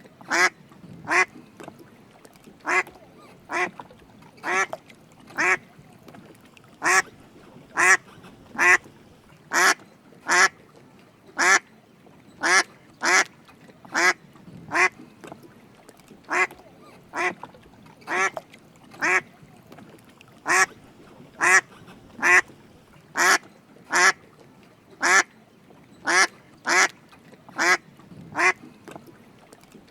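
Drake mallard duck calling repeatedly in short, raspy quacks, about one or two a second, with a few brief pauses between runs.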